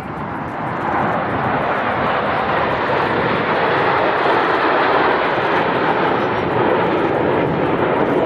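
Aircraft flying past, its engine noise swelling about a second in and then staying loud.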